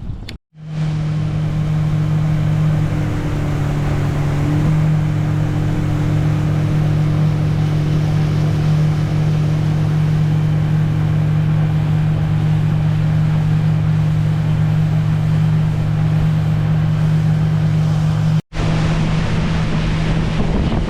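A small boat's engine running steadily at a constant cruising speed, with a rush of wind and water over it. The sound cuts out abruptly twice, just after the start and near the end.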